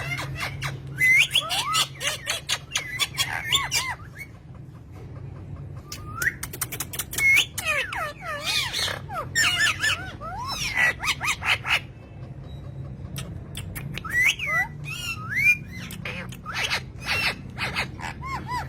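A bird chirping and squawking in quick bursts of short, sliding calls, in three bouts with short pauses between them, over a steady low hum.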